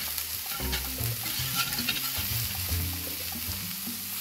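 Minced-meat patties sizzling steadily in a hot ridged cast-iron grill pan, with a few brief scrapes as a metal spatula slides under a patty to lift it.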